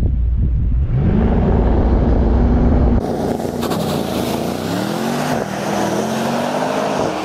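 Mercedes-AMG E63 S's twin-turbo V8 launching and accelerating hard. The engine note climbs, then rises and drops in steps as it shifts up through the gears. Wind noise on the microphone is heard in the first few seconds.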